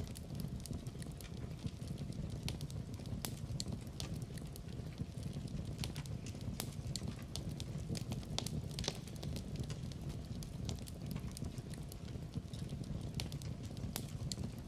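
Wood fire burning in a fireplace: irregular crackles and sharp pops over a steady low rumble of flame.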